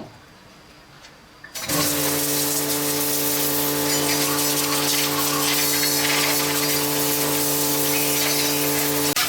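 A motor-driven machine starts about one and a half seconds in and runs steadily, giving a steady hum under a loud spraying hiss.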